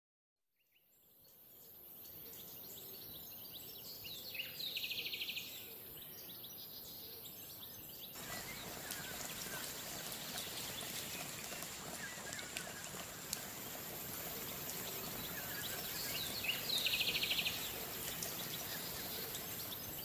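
Outdoor rural ambience: a steady hiss, with a short, rapid trilled bird call heard twice, about five seconds in and again near the end.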